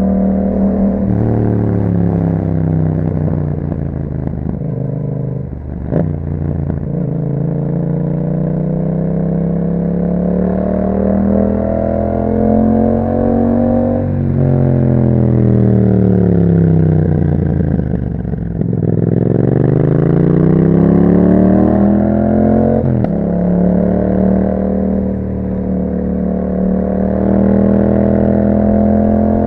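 Yamaha MT-07's 689 cc parallel-twin engine through an Akrapovic exhaust while riding: the engine note falls as the bike slows, climbs under acceleration, drops again, then climbs steeply and settles to a steady cruise. Two short sharp clicks, about six seconds in and again near the end of the second climb.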